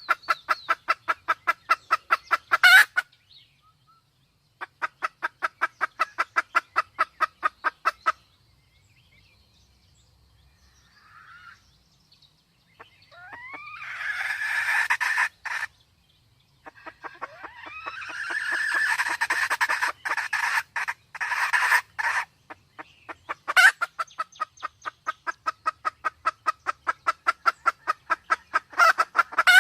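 Red junglefowl calling, the female in breeding condition: rapid trains of clucks, about eight a second, broken by pauses. Longer, harsher calls come in the middle.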